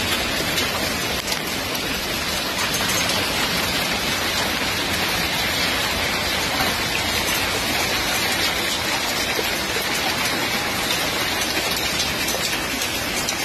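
Heavy rain mixed with hail pouring down: a steady, dense hiss with faint scattered ticks of stones striking.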